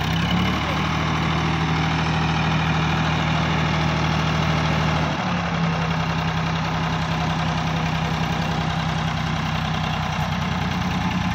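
Sonalika DI 750 tractor's diesel engine running at a steady low speed, its note dipping about half a second in and picking up again about five seconds in.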